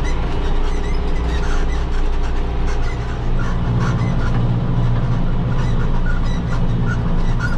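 Tractor engine running steadily under load while pulling a hay baler through the windrows, with the baler's rattle over it. The engine note grows stronger about three seconds in.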